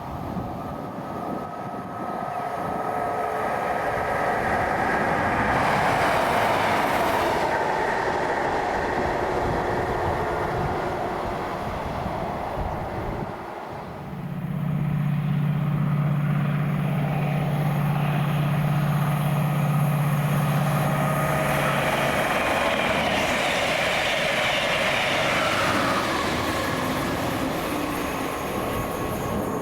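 A train passing through a station, its running noise building over the first few seconds. About halfway through the noise dips briefly, then returns with a steady low hum for several seconds.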